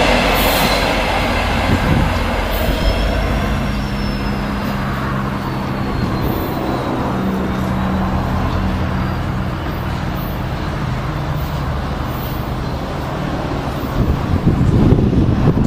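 A diesel-hauled train rumbles past and fades as it moves away, leaving a steady low engine drone, with a faint high wheel squeal rising and falling. Wind buffets the microphone near the end.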